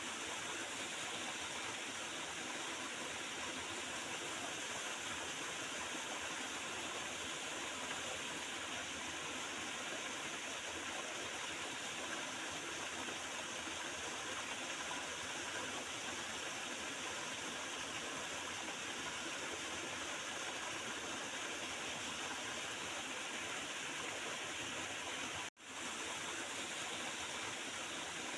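Small river gurgling and flowing over stones in a steady, even rush of water. The sound cuts out for an instant near the end and comes straight back.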